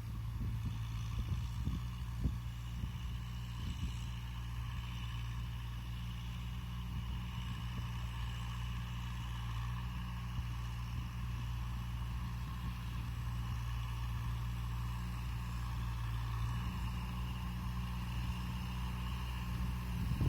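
Kubota M6040SU tractor's four-cylinder diesel engine running steadily, with a constant mechanical whine above the engine note.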